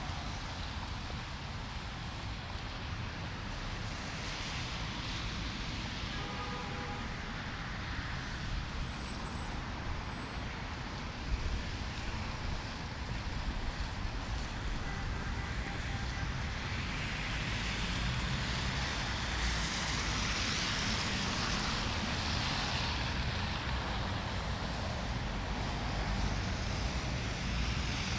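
City street traffic with wind, a steady wash of passing cars. The noise swells over the last ten seconds as a vehicle comes nearer, and a brief short tone sounds about six seconds in.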